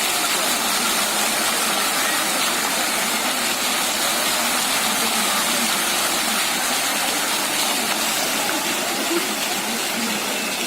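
Water fountain splashing steadily, its jets of water falling back into the pool.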